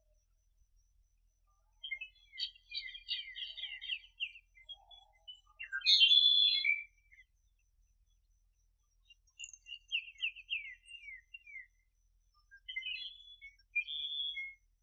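A small bird singing in four bursts of rapid, high chirping notes with quiet pauses between them; the loudest burst comes about six seconds in.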